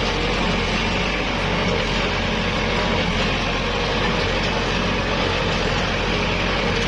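Kubota L5018SP tractor's diesel engine running steadily under load, with an even hum and no change in speed.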